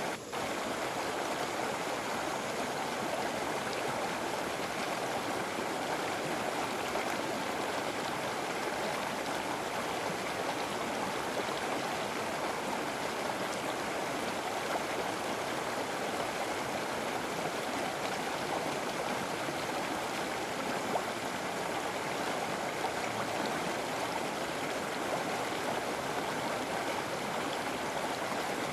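River water flowing steadily: an even, unbroken rush of running water with a gurgling stream character.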